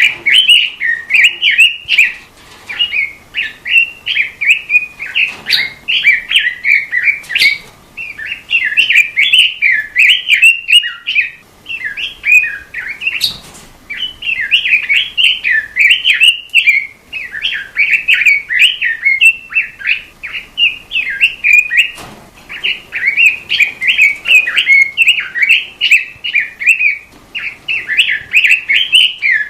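A songbird, the bird sold in Indonesian bird-keeping as a 'robin', singing a fast, unbroken warbling chatter. The song runs in long phrases with a few brief pauses.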